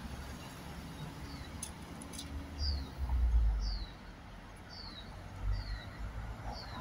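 A small bird repeating a short, falling chirp about once a second, over the low rumble of road traffic that swells about three seconds in.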